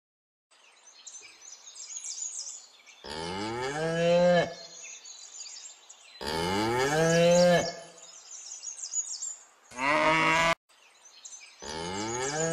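Cattle mooing four times, each call rising in pitch and then holding, the third one shorter. Faint high chirping runs in the background between the moos.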